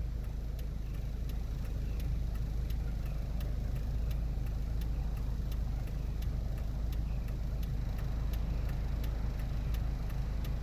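Steady low outdoor rumble with a faint, regular ticking about three times a second.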